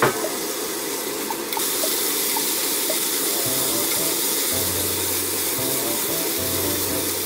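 Octopus and potato pieces sizzling steadily in olive oil in a frying pan as they are stirred.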